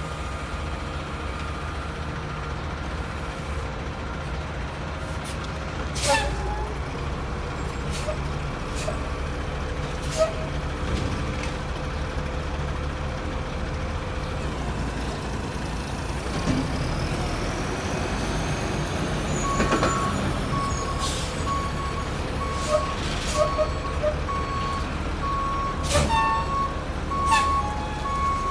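1989 White/GMC Xpeditor garbage truck's diesel engine running steadily, with sharp air-brake releases about six seconds in and again near the end. A reversing alarm starts beeping evenly about two-thirds of the way through.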